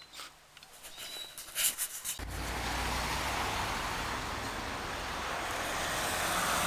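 A few light clicks, then, starting suddenly about two seconds in, a steady rushing of traffic and wind noise, as on a ride into town by bicycle, growing slightly louder toward the end.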